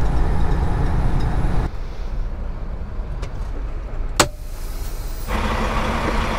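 Engine and road noise inside a semi-truck's cab while driving, a steady low rumble that drops suddenly about two seconds in and grows fuller again near the end. A single sharp click comes about four seconds in.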